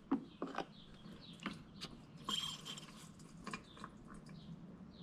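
Faint scattered clicks and light plastic taps from handling a siphon hose and gas can while siphoning old gasoline, with a brief scuffing rustle a little over two seconds in.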